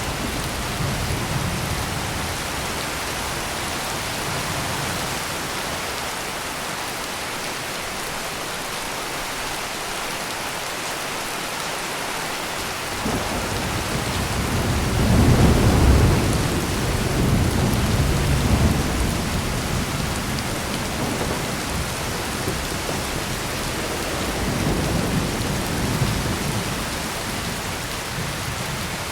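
Heavy rain pouring steadily, with rolling thunder that swells about halfway through, rumbles for several seconds, and rolls again more softly near the end.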